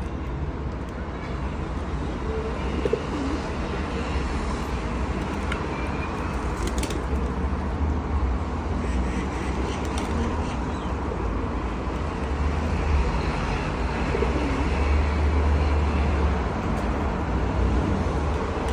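Pigeons cooing now and then over a steady low rumble of traffic.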